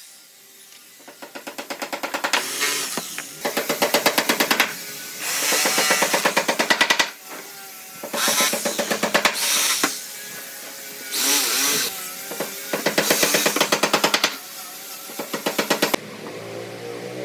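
A power tool worked in repeated bursts of rapid rattling strokes, each burst a second or two long with short pauses between, stopping shortly before the end.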